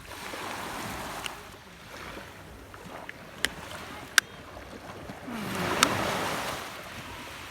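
Small sea waves washing in, swelling twice, with a few sharp clicks over them.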